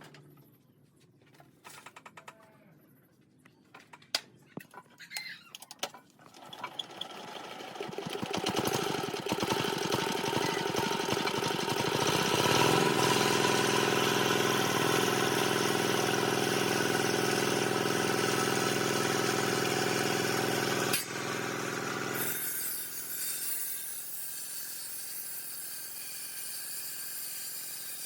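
A few faint knocks, then a power tool's motor starts and winds up over a few seconds and runs loud and steady. A sharp click comes a little past two-thirds of the way through, then the running drops to a quieter, steadier hum.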